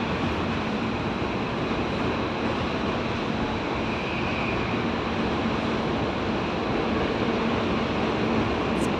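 Hankyu 1000 series electric train running, a steady rolling rumble and hiss of the train on the rails.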